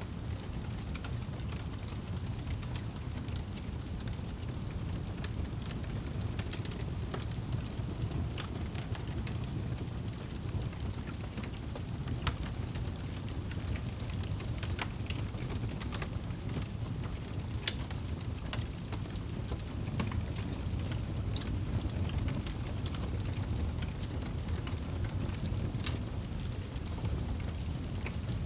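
Wood fire burning in a fireplace: a steady low rumble of flames with sharp crackles and pops coming at irregular moments.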